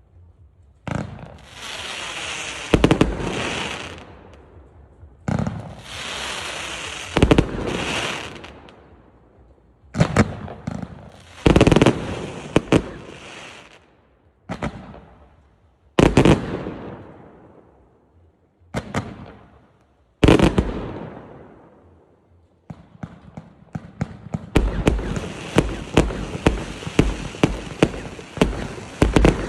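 Multi-shot consumer fireworks cake of 1-, 1.2- and 2-inch tubes firing. It gives a string of sharp bangs, each followed by a hissing tail that fades over a second or two. Near the end it breaks into a fast volley of many quick shots.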